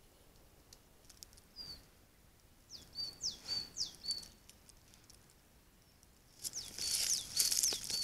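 A small bird calling in runs of several calls, each call a quick high falling whistle that ends in a short level note. Light clicks come and go. Near the end a close, loud rustling hiss rises under the calls as a red deer noses at the camera trap.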